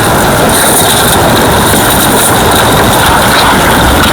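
Loud, steady rush of water flowing into a fish pond.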